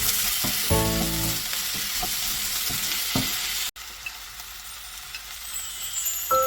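Food sizzling in a hot frying pan as it is stir-fried, the sizzle getting quieter about three and a half seconds in.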